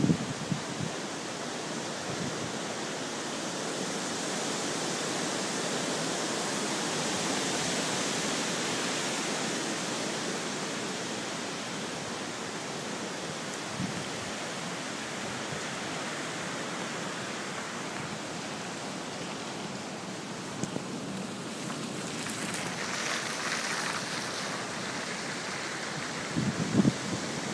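Steady rushing hiss of hurricane wind and rain, swelling a little and easing off again, with a few low bumps near the end.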